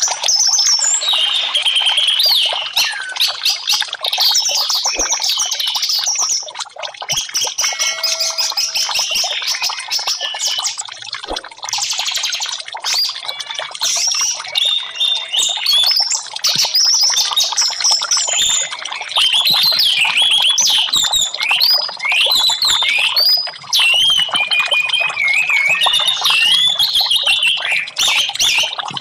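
Orange-headed thrush (anis merah) singing: a rapid, unbroken run of varied high whistled phrases and chirps, with notes sliding up and down.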